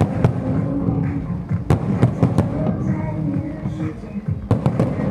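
Aerial fireworks bursting, with several sharp bangs and a quick cluster of them near the end, heard together with music.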